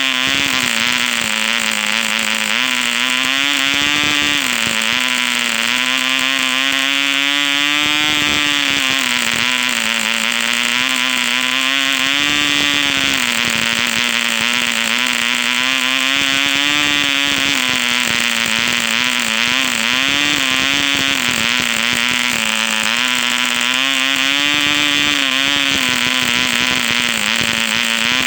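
ED 1cc Mk2 model diesel engine running steadily at high speed, turning an 8x4 Master Airscrew propeller, its pitch drifting slightly up and down every few seconds.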